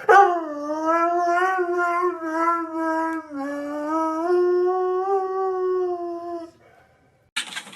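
A dog howling in one long, slowly wavering tone that dips in pitch about three seconds in and carries on until it stops after about six and a half seconds.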